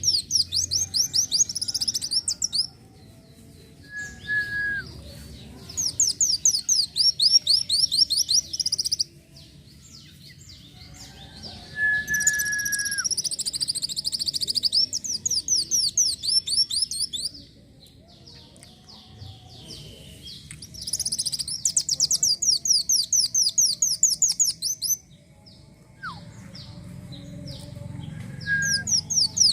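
Kolibri wulung sunbird singing. It gives rapid, high trilled phrases of two to five seconds each, separated by short pauses, with a few brief lower whistled notes between them.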